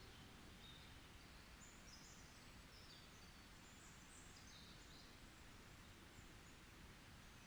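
Faint forest ambience: distant small birds chirping in short high calls, most of them in the middle stretch, over a steady soft hiss.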